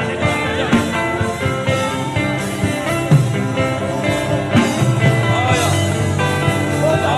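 Worship music with sustained chords and a steady beat, with a man humming a bending, wordless melody over it.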